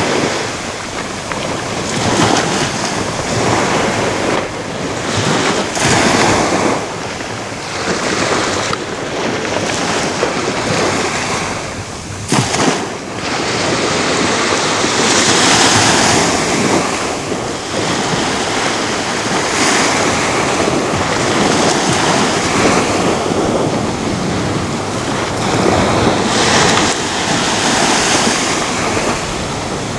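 Ocean waves breaking and washing up a beach, a continuous rush of surf that swells and eases every few seconds. A brief sharp click about twelve seconds in.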